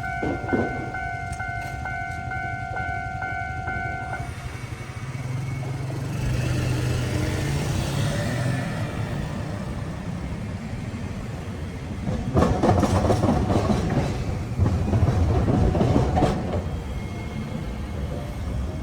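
Japanese level crossing warning bell ringing in quick repeated dings, stopping about four seconds in. A rail vehicle then runs across the diamond crossing, its wheels clattering loudly over the crossing rails for about four seconds.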